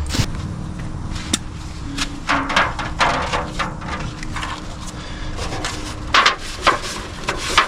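Cooking utensils and cookware handled while making cake batter: repeated short knocks and clicks with some scraping, busiest about two to three seconds in and again near the end.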